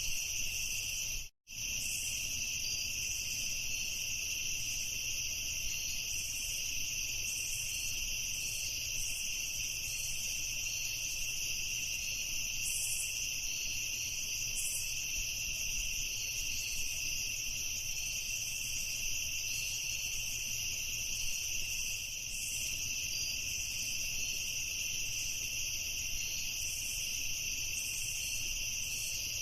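A dense, steady chorus of crickets chirping, high-pitched and continuous. The sound cuts out completely for a split second about a second in, then resumes unchanged.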